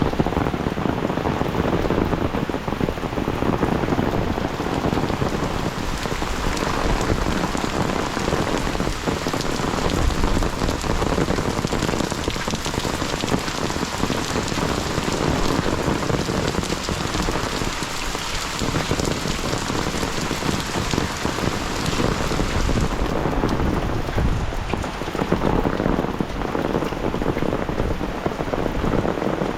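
Heavy monsoon rain falling in a steady downpour, an even hiss of drops striking surfaces.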